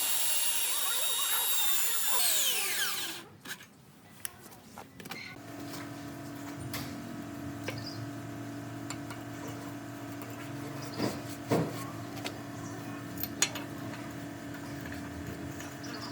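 A power tool runs with a high-pitched whine, then winds down and stops about three seconds in. After that a lower steady hum runs on, with a few sharp clicks and knocks.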